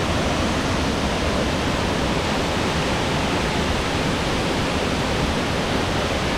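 Waterfall pouring into its pool close by: a loud, steady rushing roar with no let-up.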